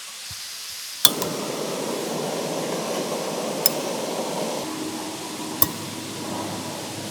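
Portable gas camp stove burner running with a steady hiss, heating the wet cookware to dry it before packing. It starts with a sharp click about a second in, and two light metal clinks follow later.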